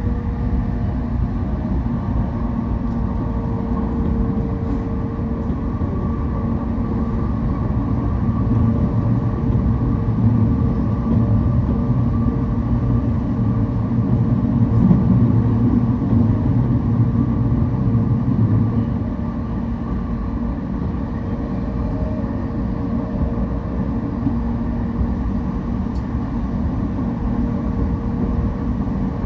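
Interior running noise of a JR East Shonan-Shinjuku Line electric train at speed: a steady rumble of wheels on rail with the hum of the traction motors. The low rumble eases a little about two-thirds of the way through.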